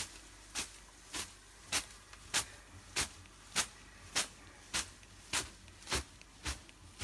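A bath broom (venik) swatting a dog's coat in the steam room in an even rhythm, a little under two strokes a second, about a dozen strokes in all.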